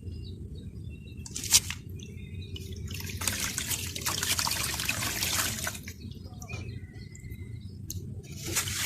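Grainy, dusty molded mugs crumbling in water, with trickling and dripping. There is a sharp tap about one and a half seconds in and a stretch of steady hiss in the middle.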